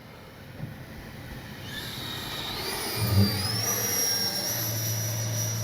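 Electric ducted-fan whine of an FMS Futura V3 RC jet's 80mm 12-blade fan in flight. It grows steadily louder, its high whine rising in pitch for about a second before holding steady.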